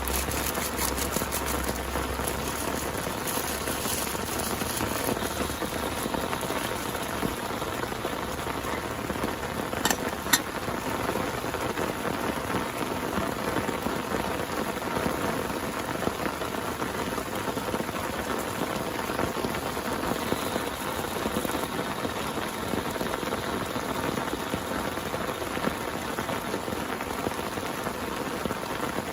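Steady rain falling, with a low rumble of thunder dying away in the first few seconds. A couple of sharp drops or taps stand out about ten seconds in.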